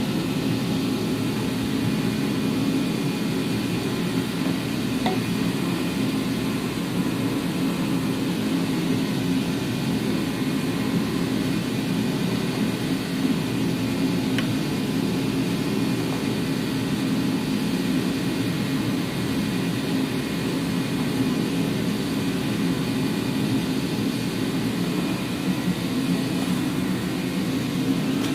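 A steady low drone that holds an even level throughout, with no rise or fall.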